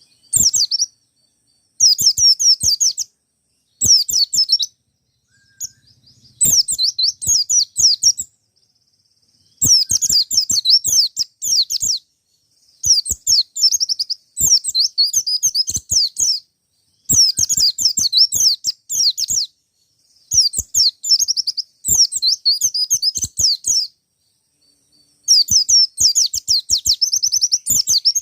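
Wild-type ('ngalas') white-eye singing insistently in repeated bursts of fast, high twittering, each burst one to three seconds long with short pauses between.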